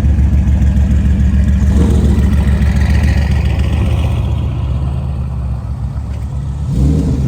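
A car engine running loud and close with a fast, steady low pulse. It eases off over the second half, then gives a short blip of revs near the end.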